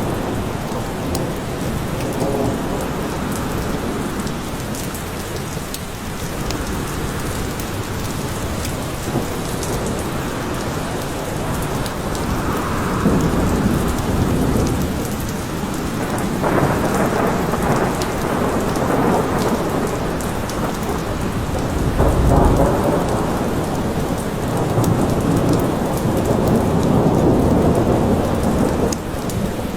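Steady rain falling, with thunder rumbling low in several rolling swells, the strongest about two-thirds of the way through and near the end.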